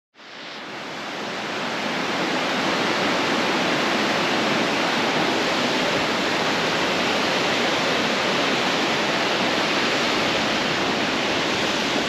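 Steady rushing water with an even hiss and no rhythm, fading in over the first couple of seconds.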